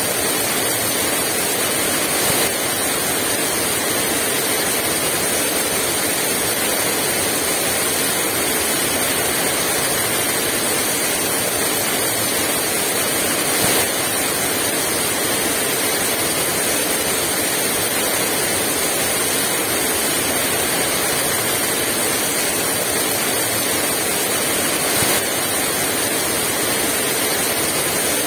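Heavy rain pouring down in a steady, dense hiss without strong wind, with three brief slight surges spread through it.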